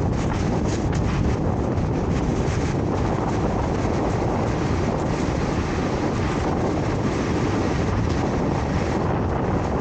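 Strong typhoon wind blowing across the microphone: a loud, steady rumbling rush of noise with no let-up.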